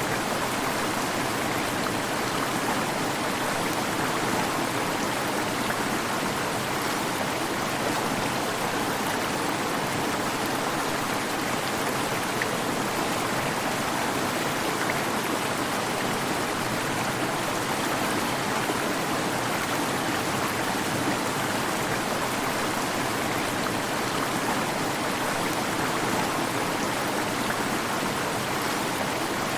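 Waterfall: steady rushing of falling water, an even unbroken hiss with no changes.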